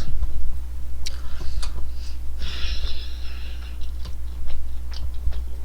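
Mouth sounds of someone eating McDonald's chicken nuggets: scattered small clicks of chewing, with a breathy sniff about halfway through, over a steady low hum.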